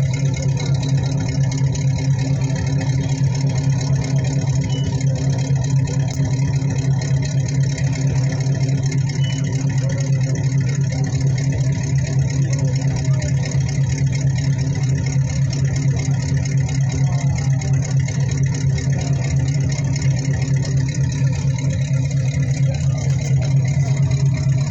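Ford Mustang GT's 351 cubic-inch V8 engine idling steadily.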